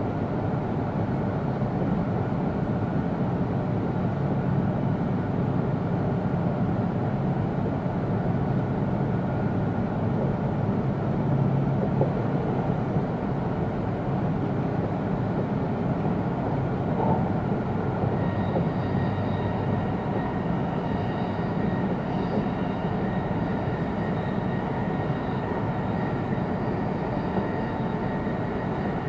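Steady running noise of an E2-series Shinkansen heard from inside a passenger car: a continuous low rumble of wheels on rail. About two-thirds of the way through, a set of faint steady high tones joins it.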